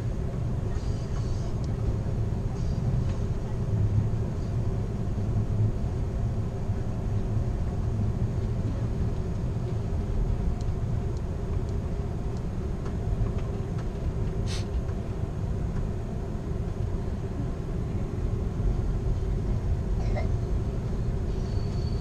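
Steady low rumble of a passenger train car rolling along the rails, heard from inside the car, with one sharp click about two-thirds of the way through.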